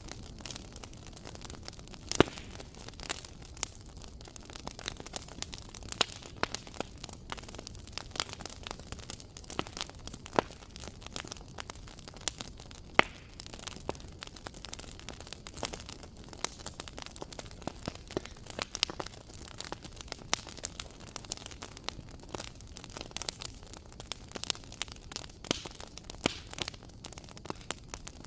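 Wood fire crackling: irregular sharp pops and snaps over a soft steady hiss, with louder pops about 2 seconds in and again near the middle.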